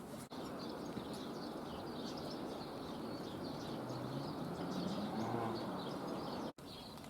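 Steady outdoor background noise with small birds chirping faintly throughout, and a faint low hum that swells for a couple of seconds around the middle.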